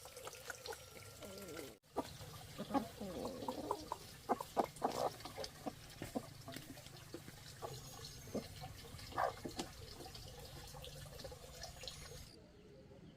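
Water splashing and dripping, with scattered sharp clicks and knocks.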